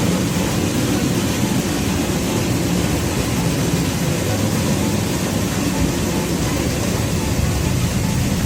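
Duct-cleaning equipment running: a steady, loud rush of air and motor noise from a high-powered vacuum pulling through HVAC ductwork.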